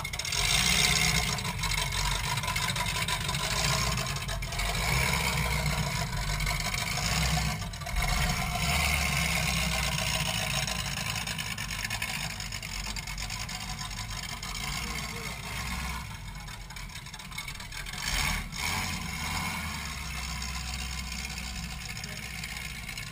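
Demolition derby car's engine idling steadily, heard from inside the gutted cabin, with a few brief knocks.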